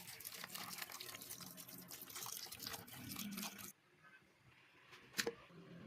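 Liquid splashing, with a crackle of small spatters, that cuts off abruptly about three and a half seconds in, followed by a single sharp click near the end.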